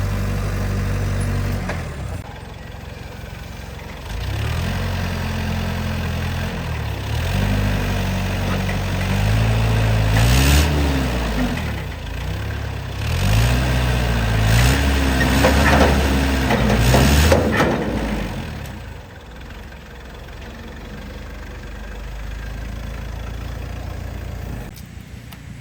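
Truck engine running: it is steady at first, then revs up and eases off several times, as if pulling away and working through the gears, then settles to a quieter, steady run.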